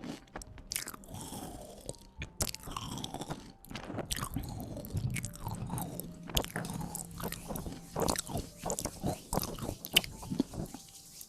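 Close-miked ASMR trigger sounds: a dense, irregular run of crackling, crunching clicks mixed with swishing rustles.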